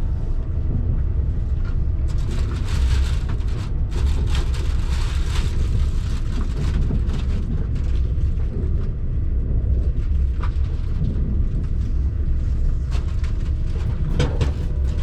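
KTX high-speed train running: a steady low rumble with rushing noise and brief clusters of rattling clatter, heaviest a couple of seconds in and again near the end.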